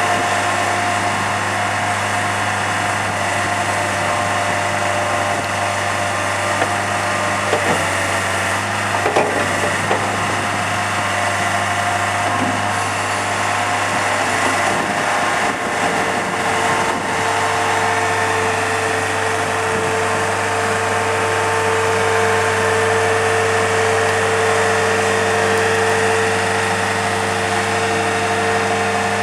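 Mustang 2054 skid steer loader's engine running steadily; a few knocks sound about a quarter of the way through, and a steady higher whine joins at about twelve seconds in and holds.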